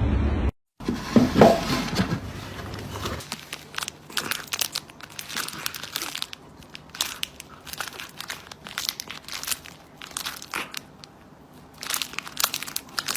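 Irregular crinkling and crackling, many small sharp clicks at an uneven pace, after a louder sound with a wavering pitch lasting about two seconds just after a brief cut.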